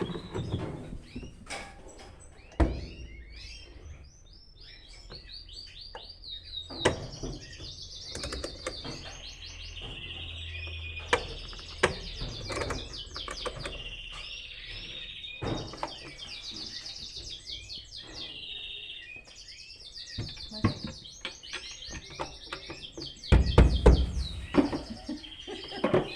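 Small songbirds chirping and twittering rapidly and without pause. Sharp knocks come now and then, with a cluster of louder thumps near the end. A low hum runs underneath through the first half.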